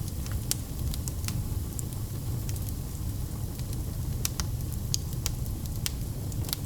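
Wood fire in a fireplace crackling, with irregular sharp pops and snaps over a steady low rumble of flames.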